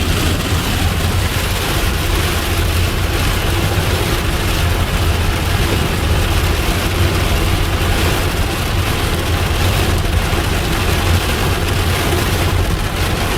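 Hail hitting a car's roof and windshield, heard from inside the cabin: a dense, steady clatter over the low rumble of the car.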